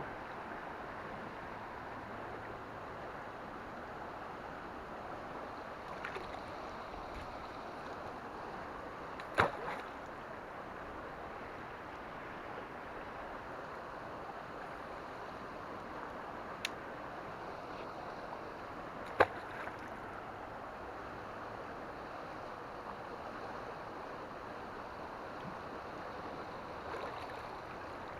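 Steady rushing of river water, with a few short sharp knocks now and then, the loudest about nine seconds in.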